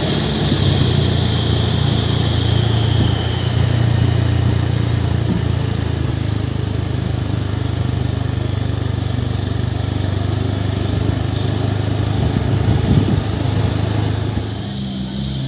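Heavy truck's diesel engine running steadily under way, a low even hum; near the end the note changes and drops a little in level.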